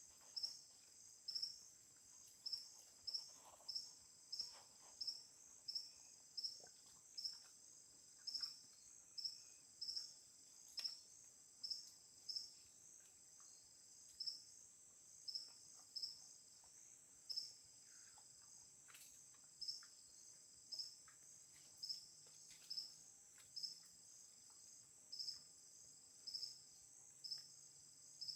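Insects calling: a faint, steady high-pitched trill with a louder chirp repeating a little more than once a second.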